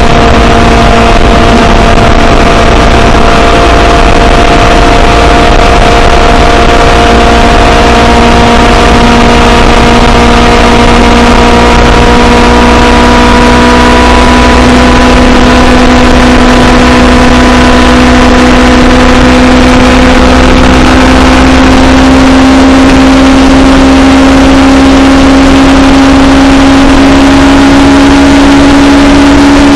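Honda CBR500R's parallel-twin engine running steadily under way, its pitch climbing slowly from about a third of the way in as the bike gains speed. Steady wind and road noise lie underneath.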